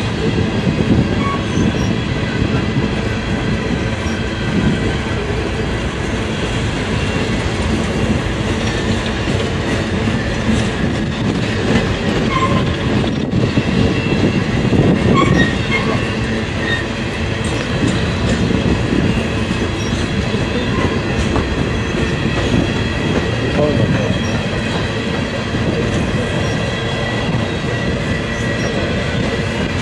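Empty coal hopper cars of a long freight train rolling past close by: a steady rumble of steel wheels on the rails, with a thin, high wheel squeal running over it.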